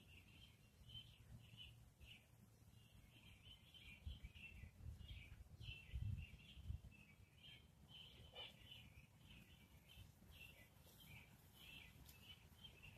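Faint outdoor ambience: small birds chirping and twittering continuously over a low rumble, with a soft low thump about six seconds in.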